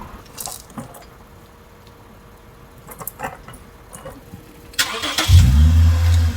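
A few faint clicks and knocks, then about five seconds in a Toyota Crown Athlete's V6 is started: a brief crank that catches and settles into a steady idle.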